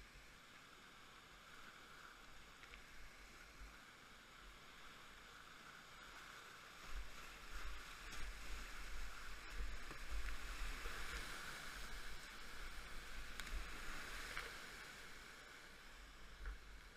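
Whitewater river rapids rushing, swelling louder about halfway through and easing near the end, with gusts of wind rumbling on the microphone.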